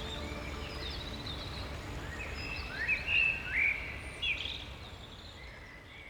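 Wild bird calls: a handful of short chirps that rise and fall, mostly in the middle, over a low steady hum, fading out near the end.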